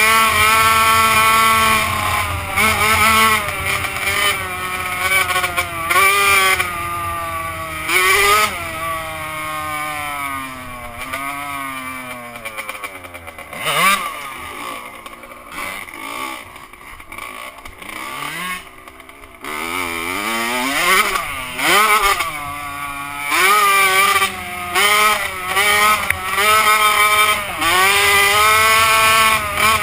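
Two-stroke motocross bike engine revving hard and dropping back over and over as it is ridden through the gears. About halfway through it fades and the pitch sweeps down, then it returns loud and high-revving.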